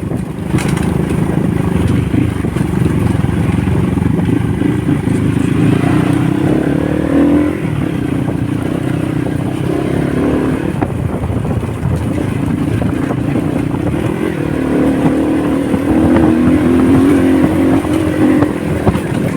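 Honda motorcycle engine running on the move, its pitch rising as it speeds up about six seconds in and again near the end.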